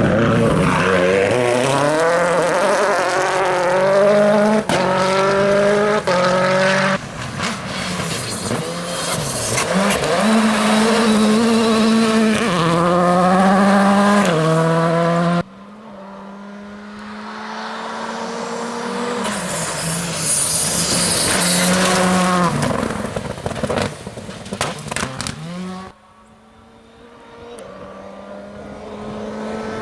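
WRC2 rally cars, with turbocharged four-cylinder engines, passing at full throttle. The engines rev up and step down in pitch at each upshift, again and again. The sound cuts off abruptly about halfway through and again near the end, and each time another car builds up and passes.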